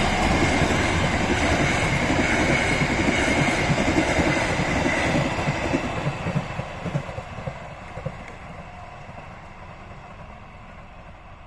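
A train rolling past on the track, its wheels knocking over the rail joints, then fading away as it moves off from about halfway through.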